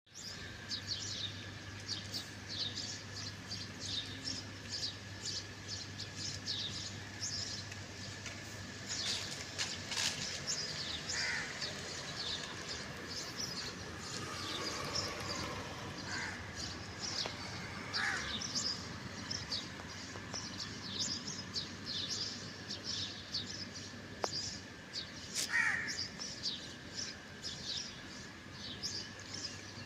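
Crows cawing several times, single calls spaced out, over constant high chirping of small birds.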